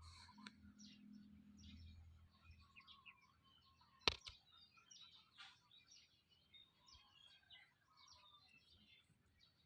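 Faint chirping of birds: many short, high calls overlapping throughout, with a single sharp click about four seconds in.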